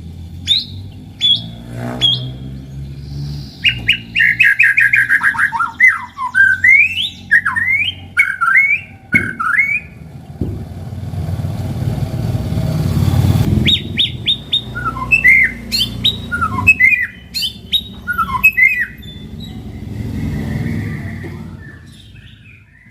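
White-rumped shama (murai batu) singing: sharp rising chips, a fast falling run of notes a few seconds in, then varied whistled glides. Under the song, a low rumble swells and fades around the middle.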